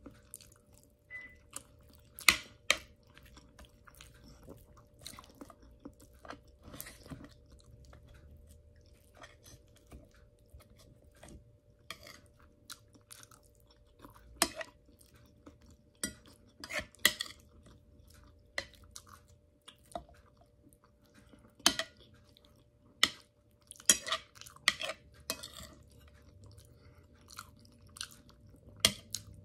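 Close-up chewing and crunching of roast pork (lechon) and rice, in irregular bites, with sharp clicks now and then from a metal spoon and fork against the plate. A faint steady hum runs underneath.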